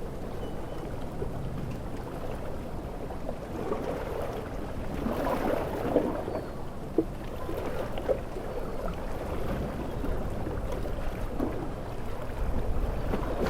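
Ocean waves washing on a shore in a steady rush of water, swelling about five seconds in and again near the end, with a few brief sharp splashes in the middle.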